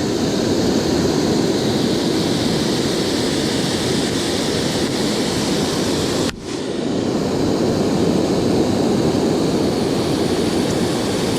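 Waterfall's rushing water, a loud, steady roar, with a brief dip about six seconds in.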